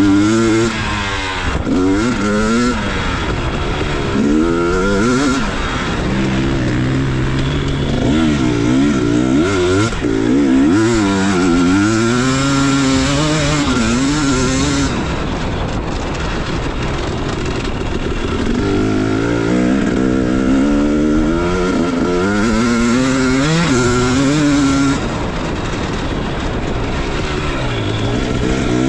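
Motocross bike engine revving hard and backing off again and again, its pitch climbing and falling with each burst of throttle and gear change.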